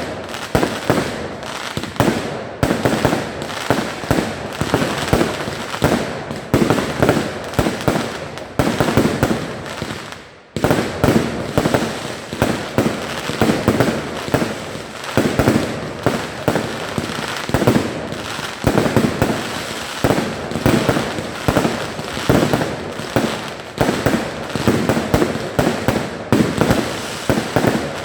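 Fireworks display: a continuous barrage of sharp bangs in rapid succession, each with a short echoing tail, briefly easing about ten seconds in before carrying on just as dense.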